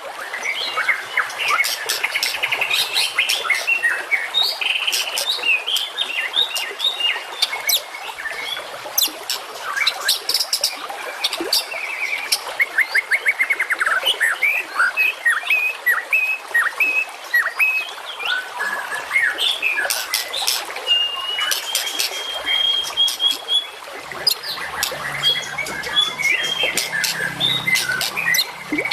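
Dense, continuous songbird chorus of a masteran training recording for white-rumped shamas: many overlapping rapid chirps, fast trills and sharp whistled notes, with one longer held whistle about three quarters of the way through.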